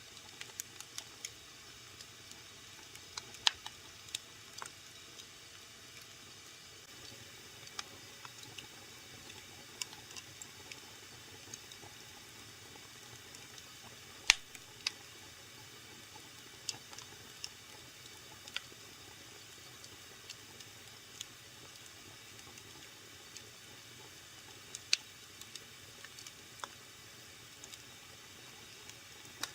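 Fire burning in a fireplace, crackling with irregular sharp pops over a faint steady hiss; the loudest pops come about three and fourteen seconds in.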